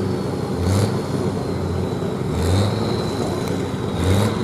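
Pulling tractor's diesel engine running loud, with low swells about every two seconds and a thin high whine that slowly falls in pitch.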